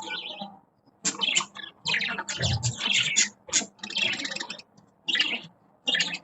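Budgies chattering and warbling in quick bursts with short pauses between them.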